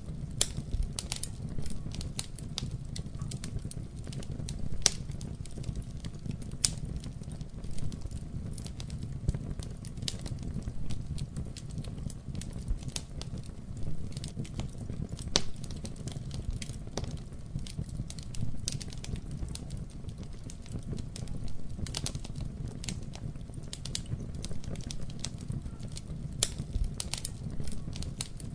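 Wood fire burning in a fireplace: a low steady rumble of flames with dense, irregular crackles and pops, a few louder snaps scattered through.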